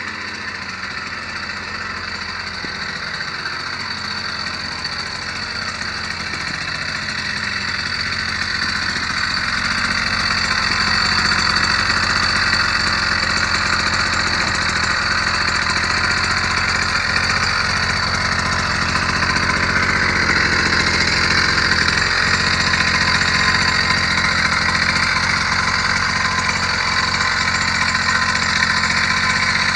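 Motorized bicycle's small engine running on its first start-up, growing louder over the first ten seconds or so and then holding steady.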